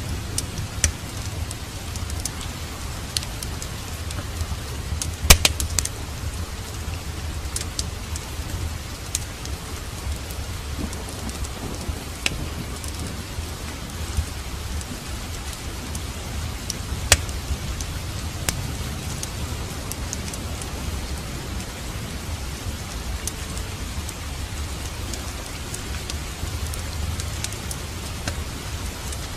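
Steady rain with a low rumble under it, and the sharp, irregular pops and crackles of a wood fire in a fireplace; one pop about five seconds in is the loudest.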